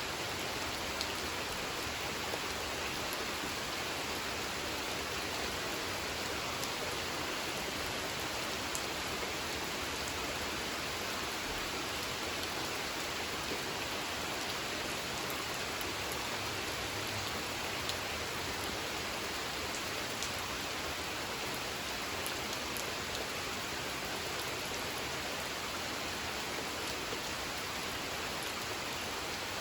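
Steady rain falling on a pond, a continuous even hiss with scattered individual drop ticks.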